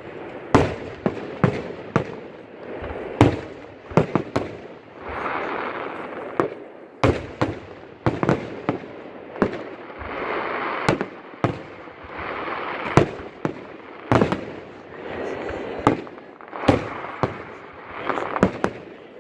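Aerial fireworks bursting one after another, sharp bangs some in quick clusters, with stretches of crackling between them.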